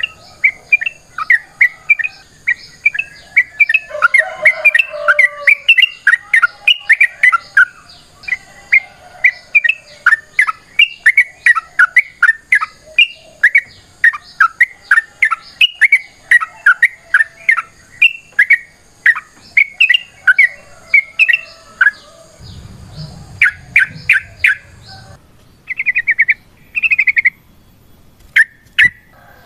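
Yellow-vented bulbul (trucukan) singing a long, fast chattering run of short, sharp notes, several a second. It breaks off about 25 seconds in, followed by a couple of short rapid trills and a few scattered notes.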